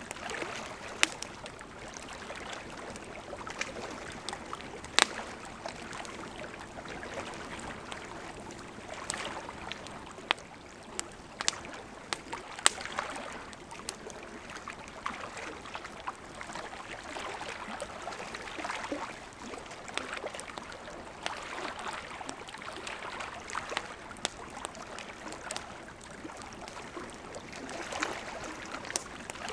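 Wood campfire burning: a steady hiss of flames with frequent irregular crackles and sharp pops from the burning wood.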